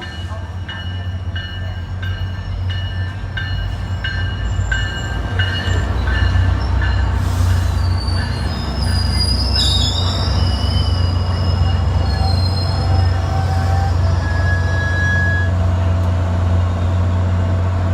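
SunRail commuter train pulling into the platform: a steady low diesel-locomotive drone grows louder while its bell rings about every half second for the first several seconds. High brake and wheel squeals follow as it slows.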